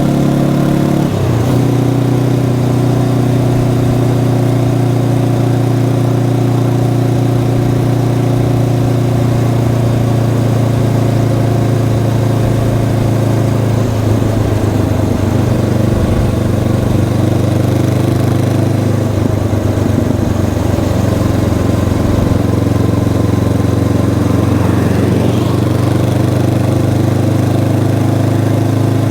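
Honda CB500X motorcycle's stock parallel-twin engine running under way at mostly steady revs. The pitch dips and shifts about a second in, and wavers briefly a few more times later on.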